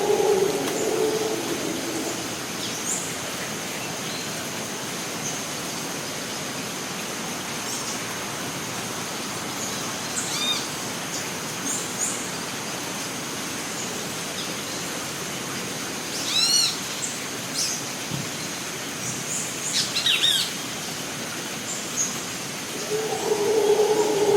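Costa Rican rainforest ambience: an even hiss with a thin high steady tone, and scattered bird calls, the clearest about two-thirds of the way through. A low droning sound is heard at the start and returns near the end.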